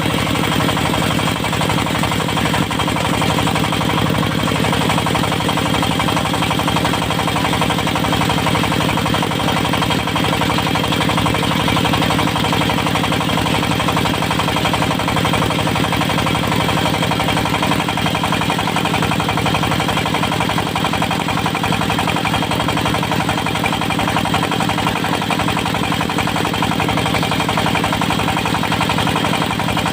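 Diesel engine of a serkel circular-blade sawmill running steadily with a fast, even beat.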